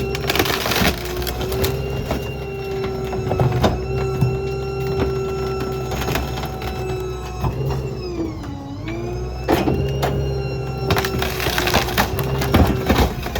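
Hydraulic packer of a Ford F-550 New Way Diamondback rear-load garbage truck cycling: a steady whine from the truck's engine and hydraulic pump, which sags in pitch under load about eight seconds in and then recovers, with loud bangs and crunches of dumped debris being crushed in the hopper.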